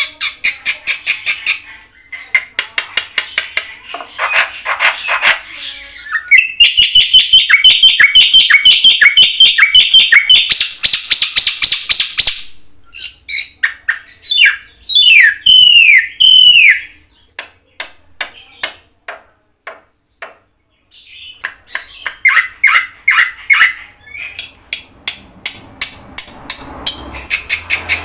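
Black-winged myna (jalak putih) singing a varied song: fast runs of sharp repeated chirps and rattling trills, and several swooping, arched whistles. The song breaks off for about three seconds around two-thirds of the way through, then resumes with rapid chirping.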